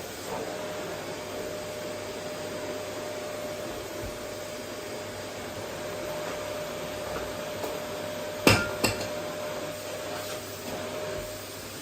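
Vacuum cleaner running steadily with an even rushing hum and a steady motor whine, with two sharp knocks in quick succession about two-thirds of the way through.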